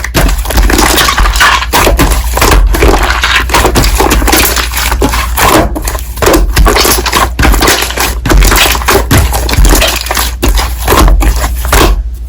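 Slime being squeezed and pressed by hand: a loud, dense, noisy sound broken by many short, irregular gaps as the hand presses and releases.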